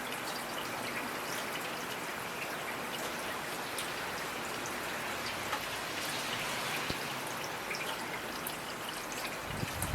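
Steady rainfall, a continuous hiss with individual raindrops ticking through it. A brief low rumble comes near the end.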